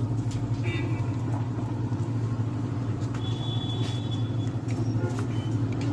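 A steady low rumble like a running engine or traffic, with a few faint clicks over it.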